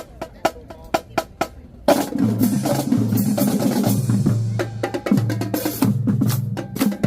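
Marching drumline: about two seconds of sharp, evenly spaced stick clicks keeping time, then the full line comes in loud with snares, tenors and pitched bass drums playing a driving cadence.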